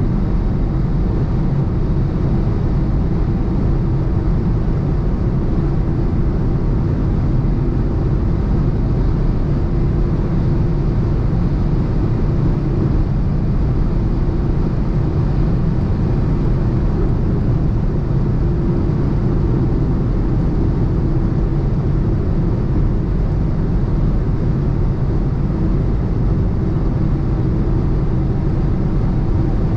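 BMW 118i's turbocharged three-cylinder engine running at steady high speed, with no change in pitch, over constant road and wind noise.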